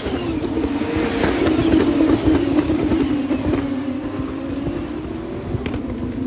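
Racing cars running at speed past the track, a continuous engine note whose pitch dips and then rises again as cars go by.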